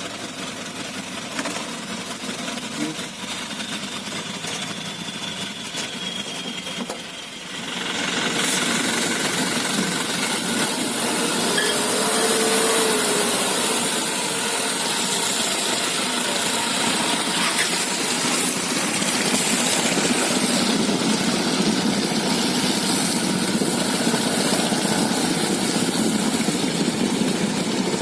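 Hino Dutro light truck's diesel engine running under an overloaded sand load. It grows louder about eight seconds in and stays loud.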